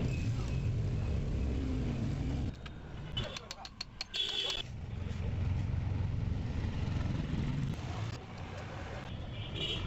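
Low rumble of a motor vehicle engine running, in two stretches of a few seconds, with a quick run of sharp clicks and metallic ticks between them.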